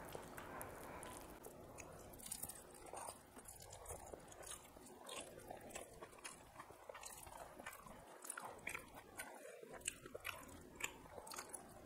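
Faint eating sounds from two people eating rice and fish curry by hand: irregular chewing and small wet mouth clicks, one every fraction of a second.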